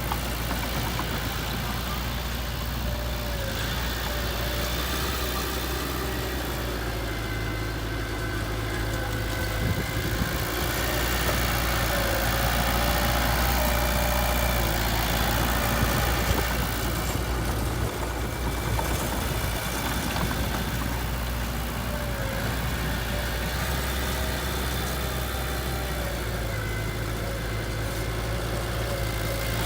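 Heavy-machinery diesel engine running steadily, growing a little louder about halfway through.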